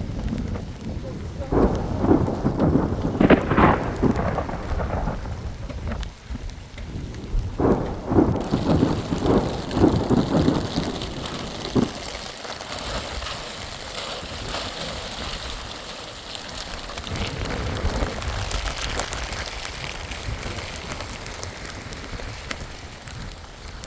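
Thunderstorm: thunder rumbling in two long peals over the first half, with rain coming in about a third of the way through and falling steadily as the thunder fades.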